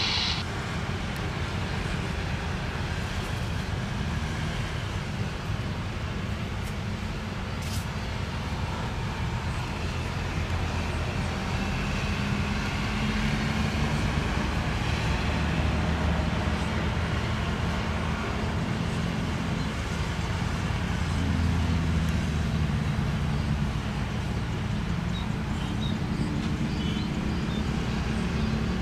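Steady low rumble of a motor vehicle running, with faint engine tones that shift slightly in pitch now and then.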